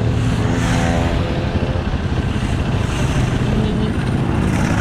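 Dual-sport motorcycle engine running under way, with road and wind noise; the engine pitch rises briefly in the first two seconds.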